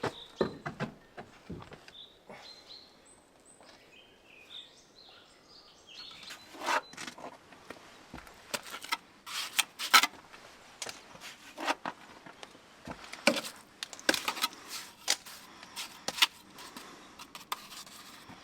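Irregular knocks and taps of building work on a wall, thickest from about six seconds in, with a few bird chirps in the first few seconds.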